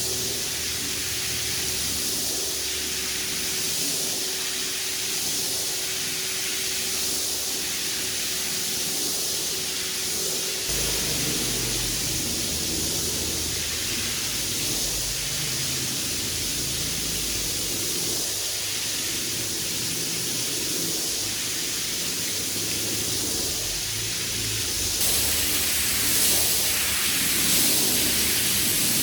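A jet of water spraying steadily onto a mud-soaked carpet, a continuous hiss that swells and eases slightly every couple of seconds.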